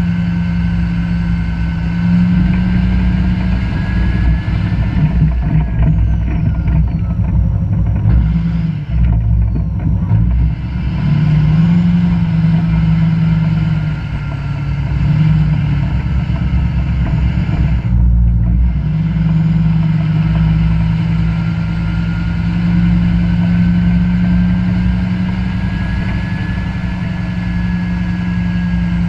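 A vehicle's engine running steadily while driving through snow, its low hum rising and falling in pitch with the throttle.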